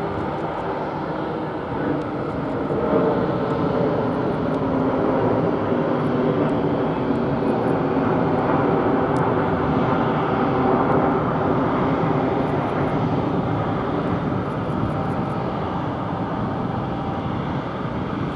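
Jet engine noise from an Airbus A340-300's four CFM56 turbofans, running steadily. It grows louder about three seconds in and eases slightly near the end.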